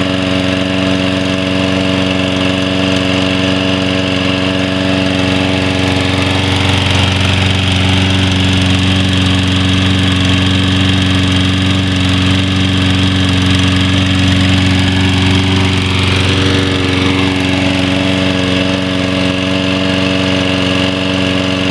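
Toro Recycler lawn mower's 190cc Briggs & Stratton engine running steadily at its fixed speed on one of its first runs. Its note turns rougher for about ten seconds in the middle, then evens out again.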